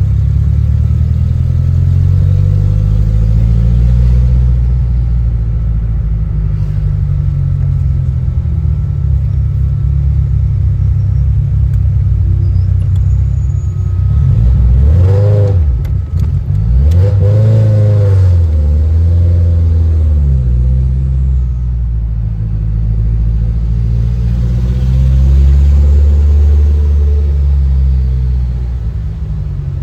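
Car engine running under way, its pitch rising and falling as it accelerates and slows, with sharp revs up and down about halfway through.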